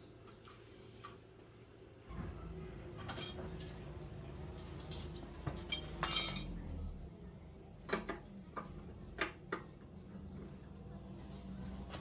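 Metal tools and engine parts clinking and knocking together during hand work on a small engine, with a few sharp clinks about three and six seconds in and several more later. A low steady hum starts about two seconds in.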